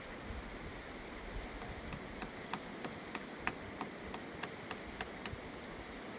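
A quick run of light, sharp taps, about three or four a second for a few seconds, over a steady rush of river water.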